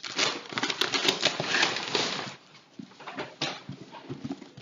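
Packaging being handled: loud crinkling and rustling for about two seconds, then fading to scattered softer rustles and clicks.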